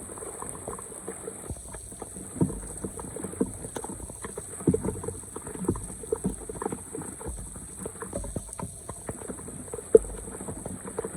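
Floodwater splashing and sloshing, with irregular knocks and scrapes throughout and one sharp knock near the end.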